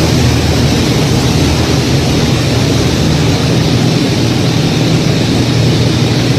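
Airplane engine and propeller running steadily, a constant loud hum with a rushing hiss over it, as heard inside the cockpit during a loop.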